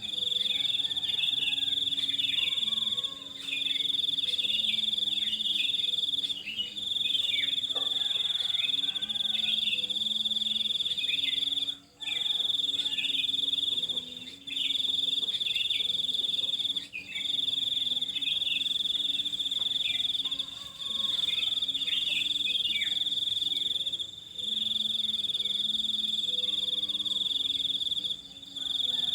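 A continuous high-pitched insect trill that stops briefly every few seconds, with short falling bird chirps behind it.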